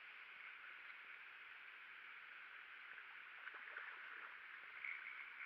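Faint, steady high hiss of outdoor ambience, with a few soft ticks.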